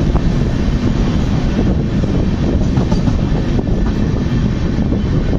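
Express passenger train running at speed through a station, heard from the coach: a steady rumble of wheels on the track.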